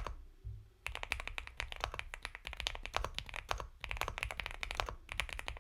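Mechanical keyboard typing on an Epomaker x Feker Galaxy 80 with Gateron Milky Yellow Pro linear switches: fast runs of soft keystrokes broken by short pauses, the first of them at the very start.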